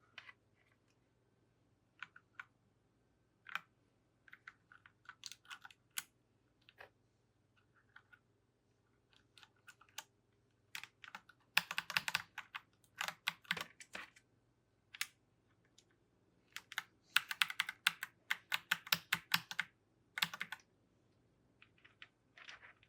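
Mechanical keyboard keys clacking as keycaps are fitted back onto the switches: scattered single presses, with two bursts of fast tapping about halfway through and again in the second half.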